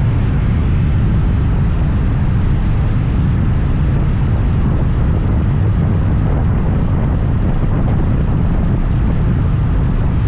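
Scooter riding at speed: a steady, loud low rumble of engine, road and wind noise on the rider's microphone.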